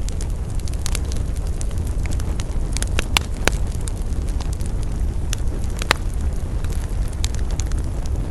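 Wood campfire burning with a steady low rumble and irregular sharp crackles and pops, the loudest snaps about three, three and a half, and six seconds in.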